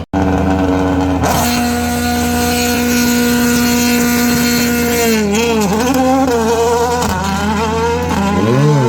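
Rally car engine held at steady revs, then revved up and down with the pitch wavering, climbing sharply near the end.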